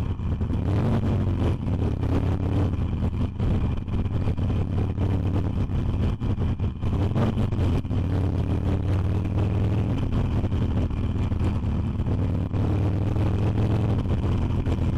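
Harley-Davidson Iron 883's air-cooled 883 cc V-twin engine running while the bike is ridden, its note drifting up and down a little with the throttle.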